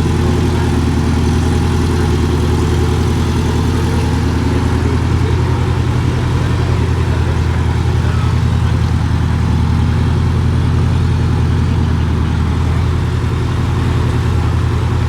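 Sports car engine idling steadily, a loud, deep and even note with no revving.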